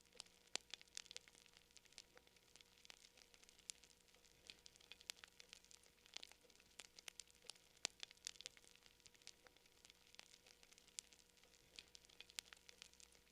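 Campfire crackling: frequent sharp, irregular pops and snaps over a faint steady hiss.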